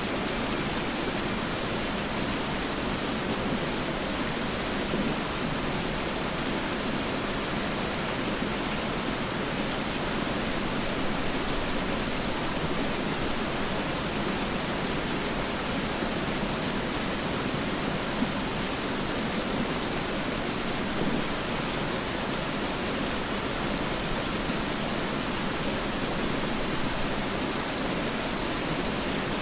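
Mountain river rushing over rocks, a steady, even hiss of flowing water.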